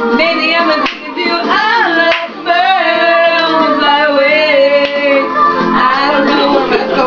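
A voice singing a pop melody without clear words, in long held notes that waver in pitch, broken by short breaths.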